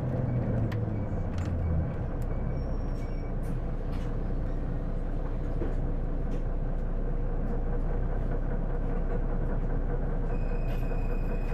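Interior running noise of an Isuzu PJ-LV234L1 city bus: a low engine rumble that eases off about two seconds in, then steady cabin noise with scattered light clicks. Near the end a steady high-pitched electronic tone starts.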